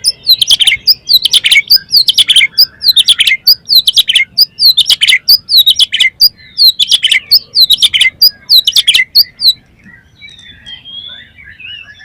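Oriental magpie-robin singing loudly, repeating a phrase of sharp downward-sweeping whistles with high clicks about once a second, then dropping to softer twittering near the end.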